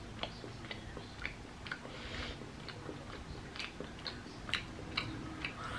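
A person chewing a soft organic gummy fruit candy with the mouth closed: a steady run of short mouth clicks and smacks, a few each second.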